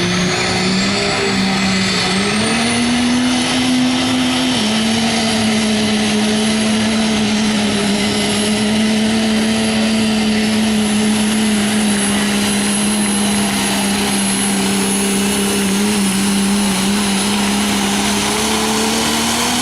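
Diesel pulling truck with twin injector pumps running flat out as it drags the pull sled. The engine note climbs over the first few seconds with a high whine rising alongside it. It drops a little about four and a half seconds in, then holds steady at full power for the rest of the pull.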